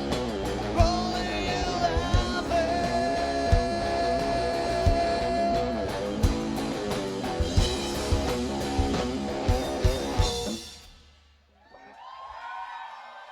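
Live rock band with drums, electric guitar and long held sung notes, stopping abruptly about ten and a half seconds in. Faint crowd noise follows near the end.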